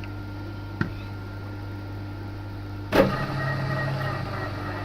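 Milling machine running steadily. About three seconds in, a 6.25 mm drill bit bites into a snapped stainless exhaust stud with a sharp knock, followed by a louder, pitched, ringing cutting noise.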